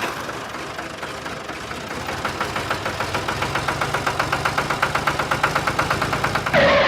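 A small engine running with a rapid, even ticking of about six to seven beats a second over a low steady hum, growing louder from about two seconds in. A short, louder rush of noise comes just before the end.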